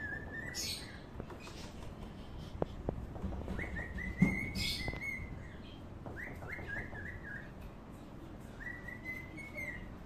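A bird chirping in quick runs of short rising peeps, four runs spread through, with a single sharp knock about four seconds in.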